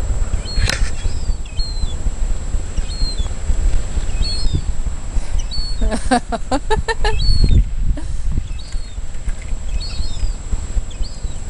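Wind rumbling on the microphone, with small birds chirping on and off. About six seconds in, a gull gives a rapid run of about seven call notes.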